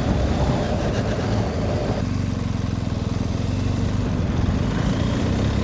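BMW R 1250 GS Rallye's boxer-twin engine running steadily as the motorcycle is ridden; the higher part of the sound drops away about two seconds in.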